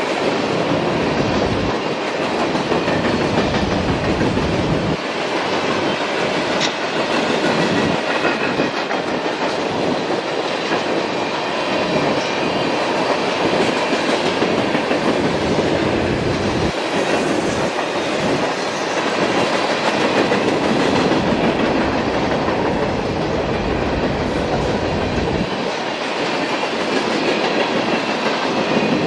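Freight train cars rolling past, their wheels rumbling and clattering on the rails at a steady, even loudness.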